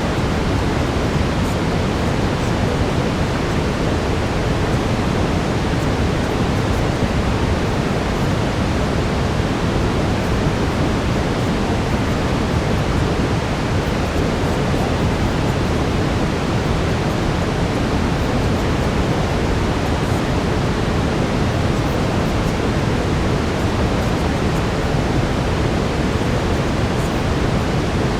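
Steady brown noise, a deep even rushing hiss with most of its weight in the low end, unchanging throughout.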